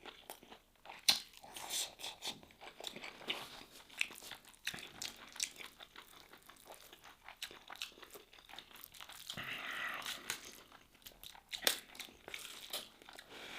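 Close-miked chewing of a beef and grain Habiyah dish, a run of many short, irregular mouth clicks and pops with a brief hissy stretch about ten seconds in.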